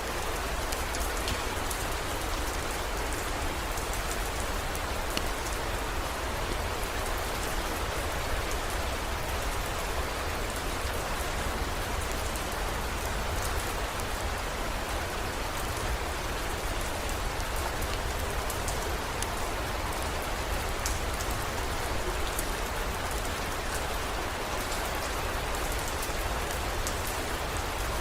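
Steady heavy rain, with scattered small drop ticks and a constant low rumble underneath.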